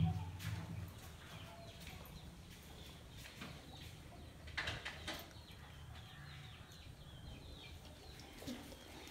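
Birds chirping faintly, with a short low hum at the very start and two light clicks about halfway through.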